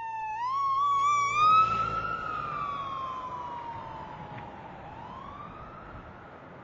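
Police siren wailing, its pitch sliding down, warbling up, falling slowly and rising again, growing steadily fainter.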